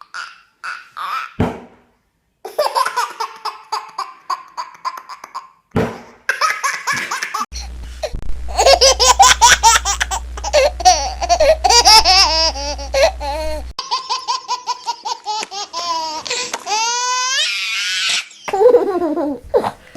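Several short clips of people laughing, cut one after another, some high-pitched and giggly like a child's or baby's laugh. A long stretch of rapid, loud laughing pulses runs through the middle, and steep rising squeals of laughter come near the end.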